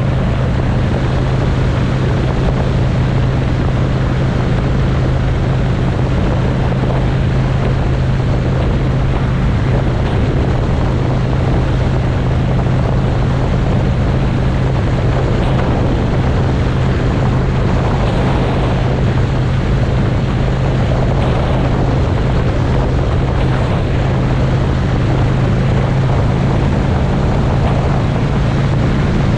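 Motorcycle engine running at a steady cruising speed, a constant low drone under heavy rushing wind noise on the microphone.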